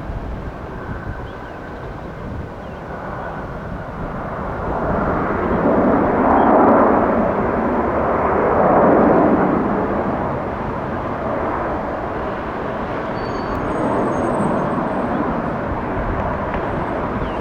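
Airbus A321-200 jet airliner arriving to land, its engine noise swelling to a peak about six to nine seconds in and then easing to a steady rumble. A faint high whine fades out in the first few seconds.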